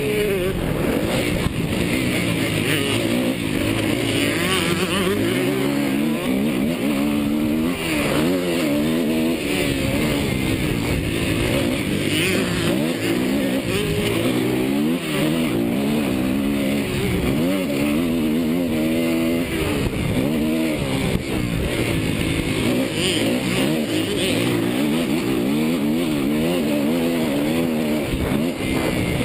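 Suzuki motocross bike engine being ridden hard, its pitch climbing and dropping every second or two as the throttle opens and closes.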